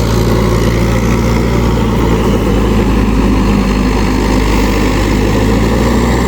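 Mahindra 585 DI tractor's diesel engine running steadily at an even speed.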